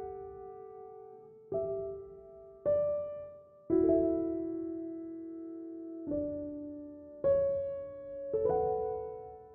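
Slow, gentle piano background music: soft chords struck one at a time, roughly every second or two, each left to ring and fade.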